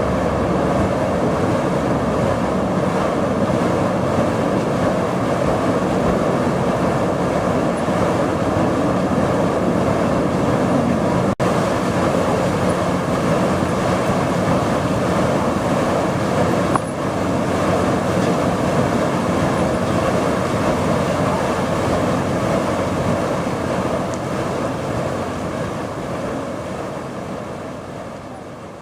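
Steady, dense rumbling background noise of a vehicle or train kind, added as a sound effect to silent footage, with a brief dropout about eleven seconds in and fading out near the end.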